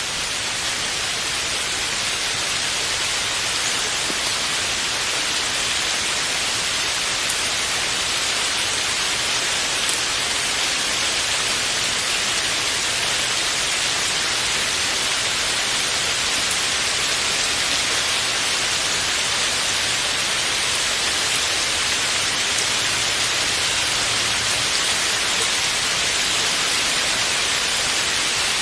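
Steady rain noise: an even, hissing wash of rain with no distinct drops or changes.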